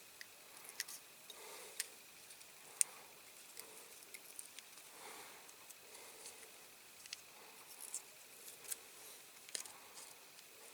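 Faint, scattered small clicks and scratchy ticks of masking tape being picked and peeled off a small painted diecast model by hand, with soft breaths about every second and a half.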